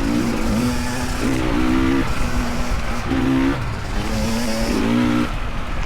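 Dirt bike engine under the rider, revving and easing off again and again as the throttle is worked, its pitch stepping up and down every second or so.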